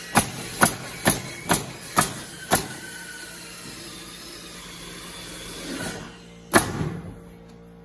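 Six sharp knocks of a hand tool striking, evenly spaced about two a second, then a pause and one louder knock near the end.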